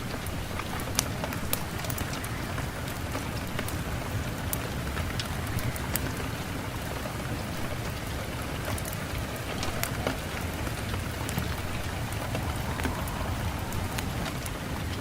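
Steady rain falling, a constant hiss with many separate drops ticking sharply on a hard surface.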